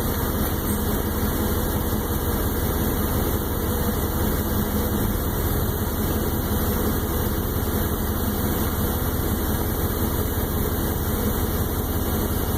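1996 Chevy pickup truck's engine idling steadily.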